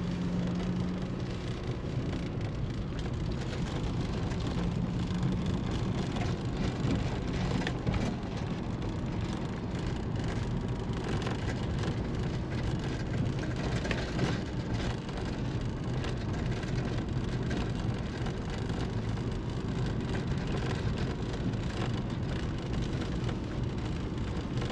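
Four-wheel drive in low range creeping down a steep, rough dirt track with a caravan in tow, heard from inside the cabin: steady tyre and drivetrain rumble with scattered knocks and rattles as it goes over bumps.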